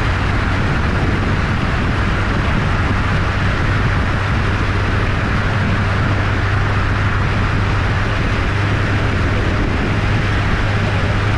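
A 1275cc MG Midget's four-cylinder A-series engine running at a steady cruise, a constant low drone under wind and road noise in the open-top car.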